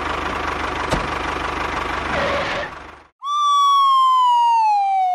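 Tractor engine running with a fast, steady putter and one sharp click about a second in, dying away about three seconds in. A louder clear whistle then slides steadily down in pitch for about two and a half seconds.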